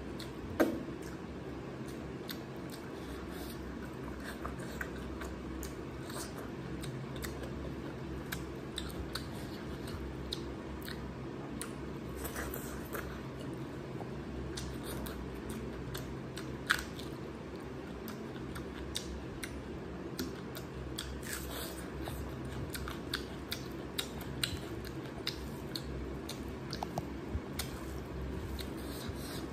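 Close-up chewing and eating sounds of rice with mutton curry taken by hand, many short mouth clicks throughout, with two sharper clicks about half a second in and about halfway through. A steady low hum runs underneath.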